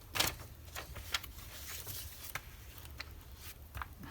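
Magazine paper cut-outs rustling and crinkling as they are sorted and handled, in short irregular strokes.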